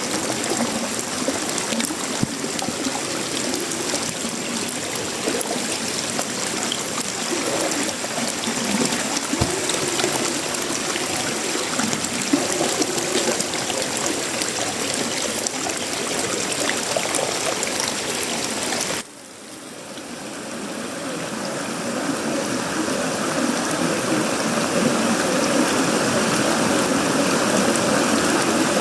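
Steady rush of heavy tropical rain. About two-thirds of the way through it drops off abruptly, then swells back up over several seconds.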